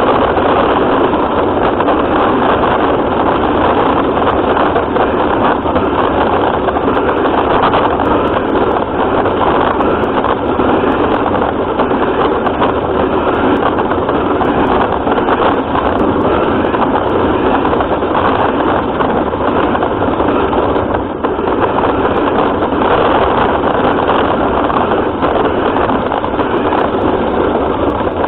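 Remote-control car running, its motor and drivetrain making a loud, unbroken noise through the camera mounted on the car, with a brief dip about 21 seconds in.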